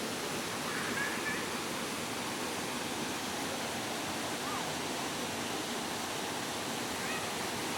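Steady rush of a mountain stream's rapids and falls. A few faint, brief high-pitched sounds float over it.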